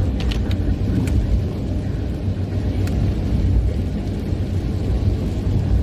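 Steady low rumble of a car being driven, heard from inside the cabin, with a few faint ticks in the first three seconds.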